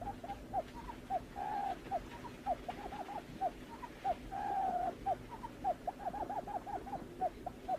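Barred buttonquail calls: a fast, uneven run of short, low, downward-slurred hoots, broken by two longer drawn-out notes about a second and a half and four and a half seconds in, over a steady low hum.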